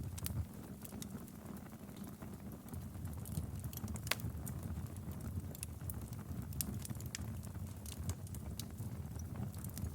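Wood fire crackling in a fireplace: irregular sharp pops and snaps over a low, steady rumble of the flames, with one louder snap about four seconds in.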